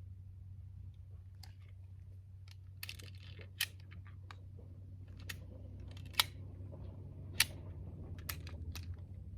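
Scattered sharp clicks and light rattles of hand handling, over a steady low hum; the three loudest clicks come about a third, two thirds and three quarters of the way through.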